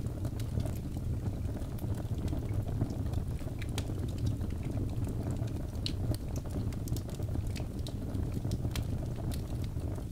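Birch logs burning in a fireplace: a steady low rumble of flames with many scattered sharp crackles and pops.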